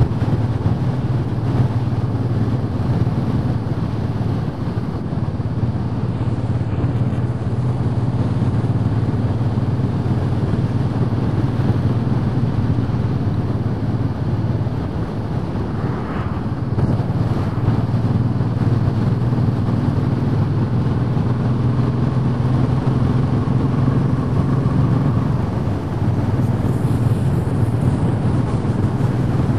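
Royal Enfield Bullet 500 single-cylinder engine running steadily, its hum even for the whole stretch.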